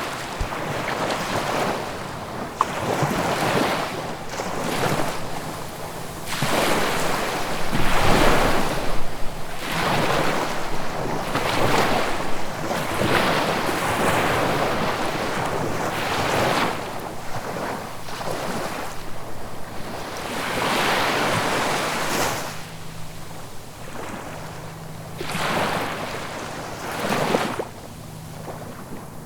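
Ocean waves breaking and washing up the shore, one surge after another every few seconds, loudest about eight seconds in.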